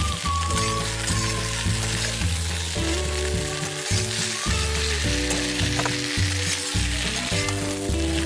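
Chunks of brinjal and tomato sizzling in oil in a wok while a metal spatula stirs and tosses them. Background music with a steady bass line plays underneath.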